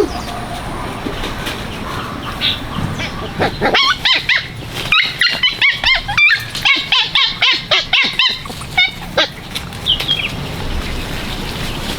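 An animal yelping in a rapid series of short, high-pitched calls, several a second, for about five seconds in the middle, with a few single calls before and after.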